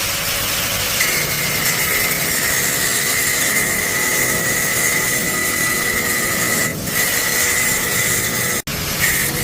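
A power tool running steadily with a high, steady whine over a harsh rasp, cut off sharply near the end and then resuming.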